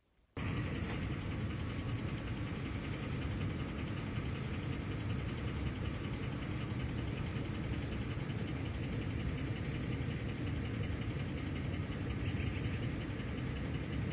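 A vehicle running: steady engine and road noise that starts abruptly about half a second in.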